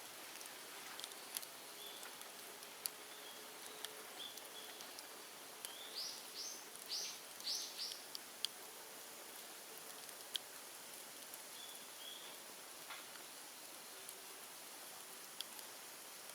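Bamboo and brush bonfire crackling faintly, with scattered sharp pops over a steady hiss. About six seconds in, a bird gives a short run of quick rising chirps.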